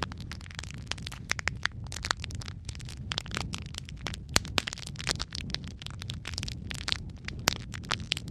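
Wood fire burning in a fireplace: a steady low rumble of flames with dense, irregular crackles and several louder sharp pops from the burning logs.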